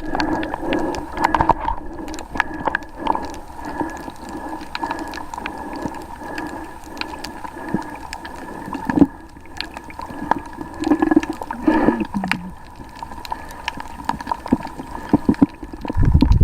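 Underwater ambience through a camera: a steady droning hum with scattered clicks and crackles and some gurgling water, and a louder low rumble near the end.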